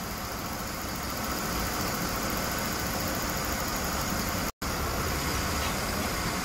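Mercedes-Benz M272 V6 engine idling steadily. The sound drops out for a split second about four and a half seconds in.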